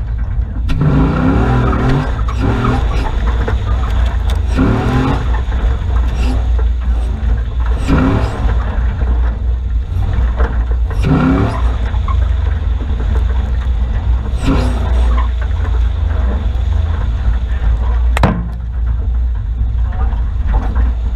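Nissan Patrol 4WD's engine revving in repeated rising surges as it drives a rough bush track, over a constant heavy low rumble heard from the bonnet. A single sharp knock late on.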